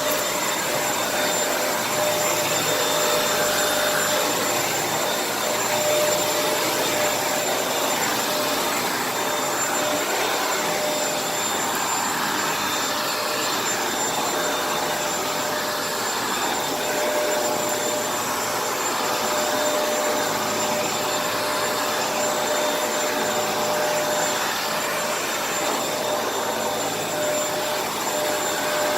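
Kenmore vacuum cleaner running steadily: a constant airflow rush with a steady motor whine, swelling slightly now and then as it works across the floor.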